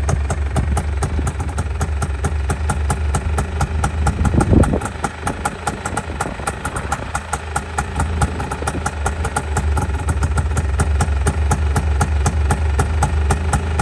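1989 Honda Pilot off-road buggy's single-cylinder four-stroke engine idling after a cold start, with an even firing pulse of about four to five beats a second. About four and a half seconds in it gives one brief louder surge, then settles back to idle.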